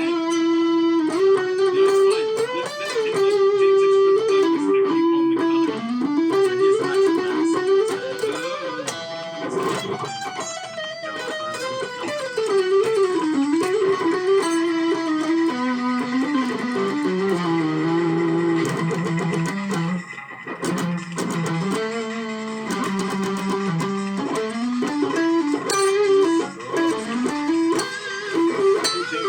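Electric guitar playing a winding solo melody, with slides and bends between notes; the line drops to a lower register for several seconds in the middle.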